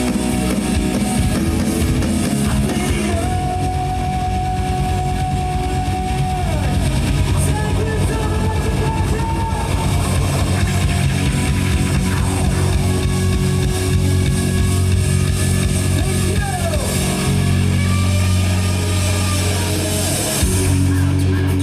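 Live rock band playing loud through a festival PA: electric guitar holding long notes that bend and slide down, over heavy bass and drums, with no singing.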